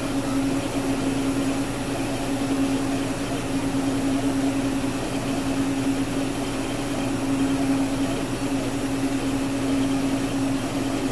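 Gravograph M20 engraving machine running as it engraves an anodized aluminium tag: a steady motor hum with an even hiss.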